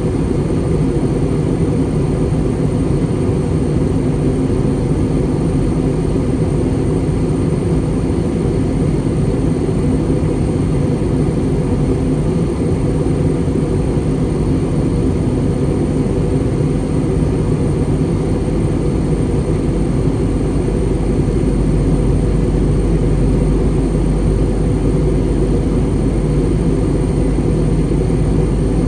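Airbus A320 cabin noise in descent: a steady deep roar of the jet engines and the airflow over the fuselage. The lowest rumble grows slightly stronger about two-thirds of the way through.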